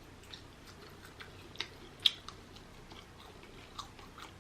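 Close-miked chewing of rotisserie chicken: a string of small, sharp, wet mouth clicks and smacks, one louder click about two seconds in.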